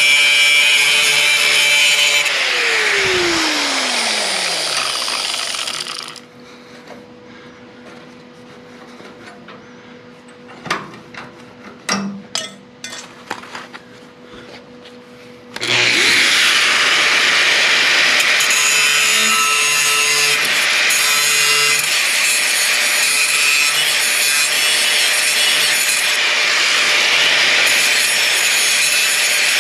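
Electric power saw cutting through the metal of a car's door-hinge mounting. It stops about two seconds in and its motor winds down with a falling whine over a few seconds. A few clicks and knocks follow in the quiet, and the saw starts cutting again about halfway through.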